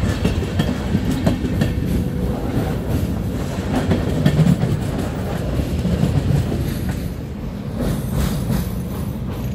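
Intercity train of DB coaches passing close by: a steady low rumble of wheels with a run of sharp clacks over the rail joints. Near the end its class 101 electric locomotive at the rear goes past and the rumble eases a little.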